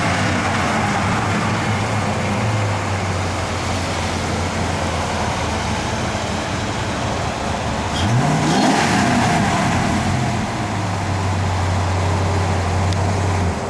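Car engine idling steadily, revved up once a little past halfway and dropping back to idle; the sound cuts off abruptly near the end.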